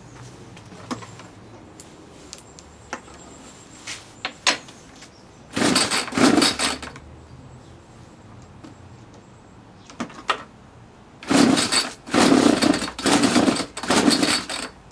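25cc Ryobi strimmer engine being cranked by its pull-starter: one long pull about six seconds in, then four quick pulls in a row near the end, with small clicks and knocks of handling between.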